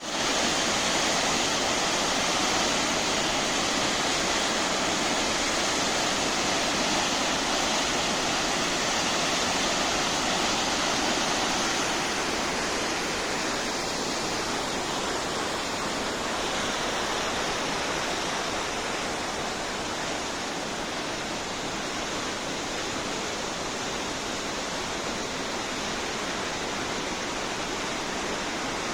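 Waterfall in a flash-flood surge (cabeça d'água): a heavy, steady rush of water, easing slightly about twelve seconds in.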